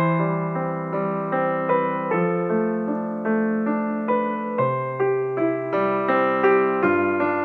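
Background music: a gentle piano melody, notes struck at an even pace over sustained lower notes.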